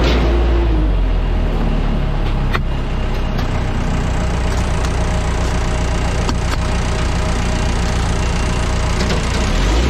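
Steady running of engines and machinery on an airport apron beside an unloading airliner, with a deep hum and a few sharp clicks.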